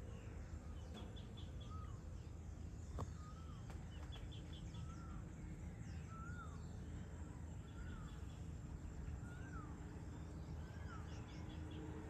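Birds calling at dusk: one repeats a short rising-and-falling note about once a second, and another gives quick bursts of high chirps every few seconds. Beneath them is a steady low outdoor rumble, and a single sharp click comes about three seconds in.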